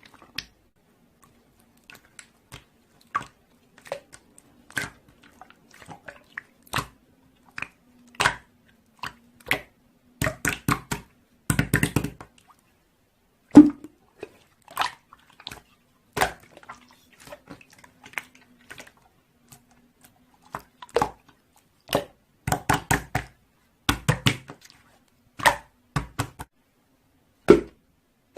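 Irregular sharp taps and clicks, some single and some in quick runs of several, over a faint low hum.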